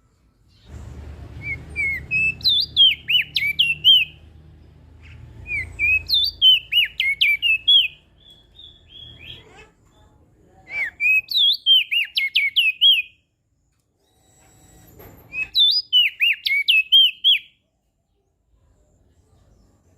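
Crested white-eye (opior jambul) singing: four phrases of quick, sharply rising and falling chirping notes, each about two seconds long, with pauses of a few seconds between them.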